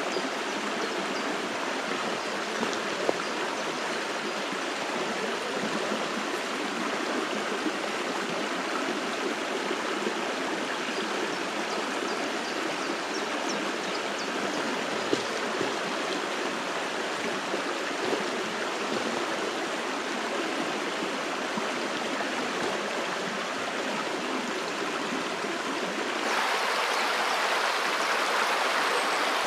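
Small stream flowing over stones, a steady babbling rush with a few light ticks and splashes. About 26 seconds in it suddenly turns louder and brighter.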